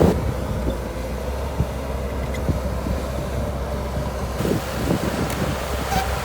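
Shantui DH17C2 bulldozer's diesel engine running steadily, with wind noise on the microphone.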